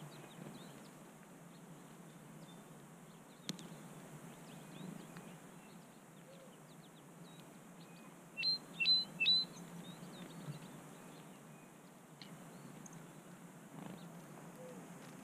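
Small wild birds chirping faintly throughout, with three loud, high chirps in quick succession about eight and a half seconds in. A single sharp click about three and a half seconds in.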